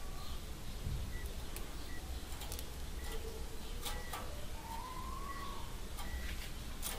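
Faint, very short bird chirps and scattered light clicks over a low steady hum. One longer whistled note rises and falls about four and a half seconds in.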